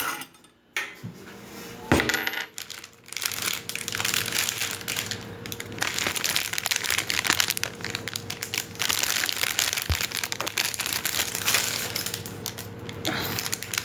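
Small metal grill parts clinking and rattling in quick, dense succession, mixed with crinkling, as they are handled during assembly. A single sharp knock comes about two seconds in.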